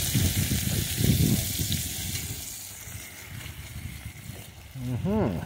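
Sliced potatoes sizzling in olive oil in a cast-iron skillet, with a slotted metal spatula scraping and turning them through the first second or so; after that the frying settles to a quieter steady sizzle.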